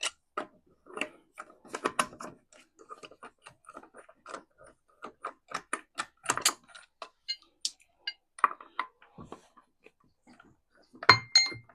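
Irregular metallic clicking of a wrench unscrewing a car's fourth wheel lug nut, with a louder ringing clink near the end.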